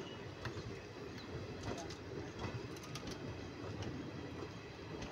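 Indian Railways passenger coaches rolling past close by: a steady wheel rumble with scattered sharp clicks from the wheels on the track.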